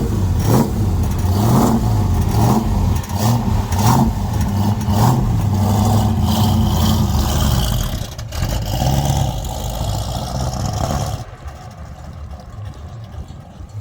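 Car V8 engine running loud just after starting, revved up and down in repeated blips. About eleven seconds in it drops off sharply to a quieter low rumble.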